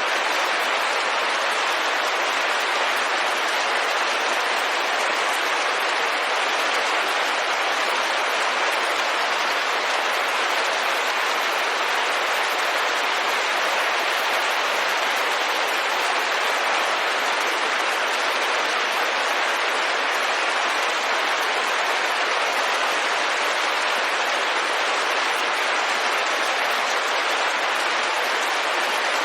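Steady rain falling on a window glass: an even, unchanging wash of noise with no thunder and no breaks.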